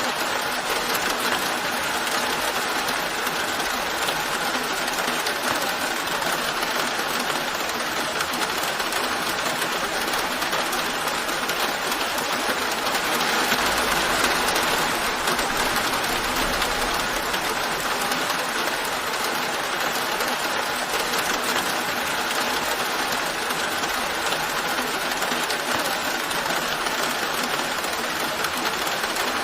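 Steady rain falling as an even hiss. It swells slightly about halfway through, with a faint low rumble underneath.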